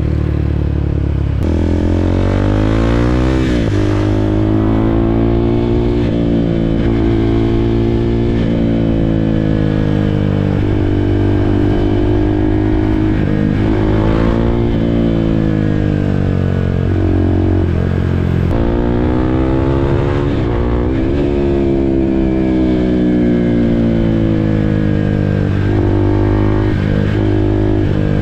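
KTM RC 390's single-cylinder four-stroke engine under way, its note climbing and dropping back again and again as the bike accelerates and eases off.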